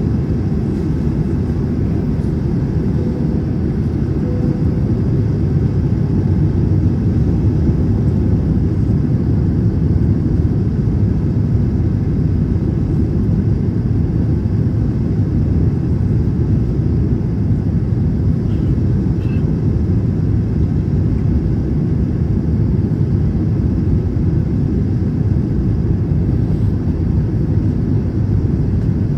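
Steady low rumble inside the cabin of an Airbus A321 in flight, from its engines and the airflow.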